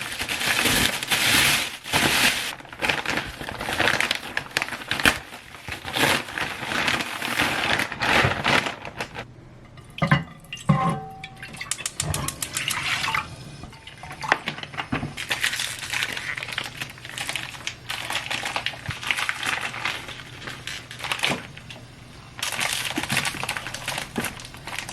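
Tap water running and splashing in a sink, surging and easing unevenly, with a few light clinks of dishware about ten seconds in.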